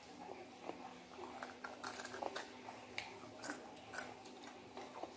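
Close-up chewing and biting of crispy fried chicken: faint, irregular crunches and mouth clicks, about two a second, over a faint steady hum.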